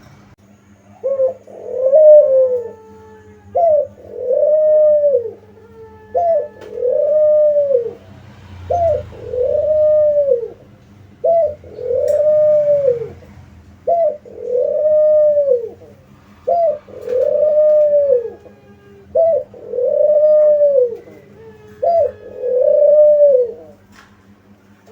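Spotted dove cooing: a repeated two-part call, a short note followed by a longer arched coo, about every two seconds, ten times over. A steady low hum runs underneath.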